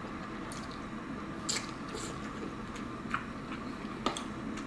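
A person chewing a mouthful of ramen noodles, with a handful of short, wet mouth smacks and clicks spread through.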